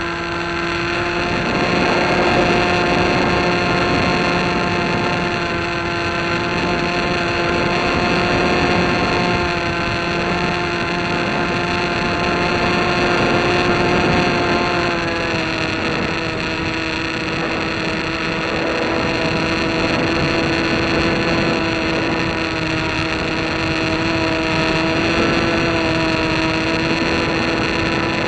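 An engine running at a steady speed, a constant drone with one small drop in pitch about halfway through.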